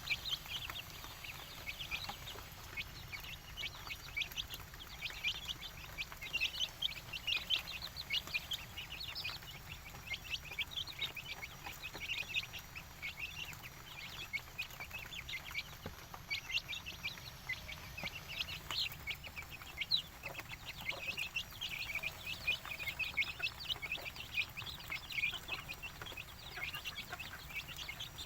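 Indonesian native village chickens (ayam kampung) calling, many short high-pitched calls overlapping without a break.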